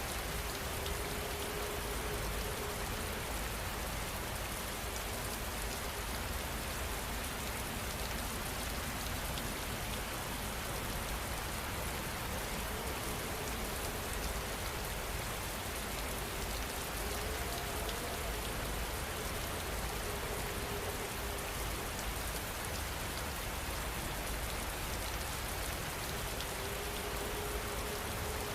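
Steady rain falling: an even, unbroken patter of raindrops on a surface. A faint held tone comes and goes a few times beneath it.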